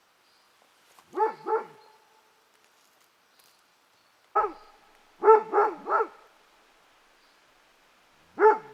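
A dog barking: two barks about a second in, a single bark, a quick run of three, then one more near the end. Each bark is short and falls in pitch.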